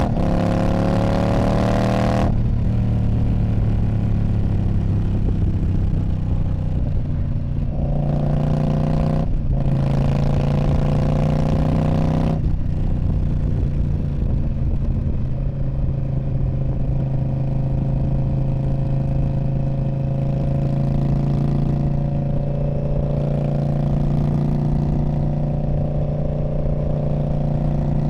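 2019 Indian Scout Bobber's V-twin engine through a Freedom Performance Radical Radius exhaust, ridden. Its pitch climbs under acceleration at first, with several sudden changes in note over the first dozen seconds as throttle and gears change, then it settles into a steady cruising drone.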